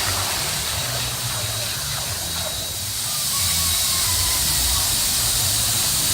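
Steady hiss of rushing, spraying water at a water park, with an uneven low wind rumble on the microphone.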